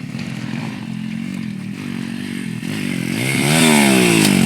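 Pit bike engine running, then revving up sharply about three seconds in and dropping back down.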